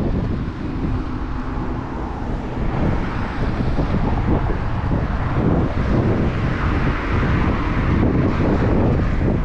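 Wind rushing over the camera microphone on a moving bicycle, mixed with the steady noise of street traffic.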